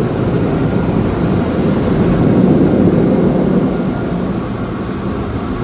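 Car wash air dryers blowing a steady rush of air over the car, heard from inside the cabin, swelling slightly a couple of seconds in.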